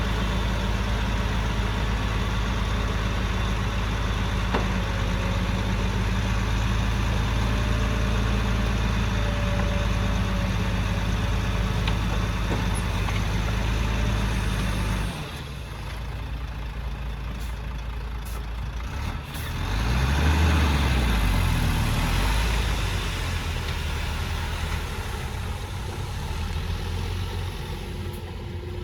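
Diesel engine of heavy construction machinery running steadily. About halfway it cuts abruptly to a different engine, which grows louder for a few seconds and then fades.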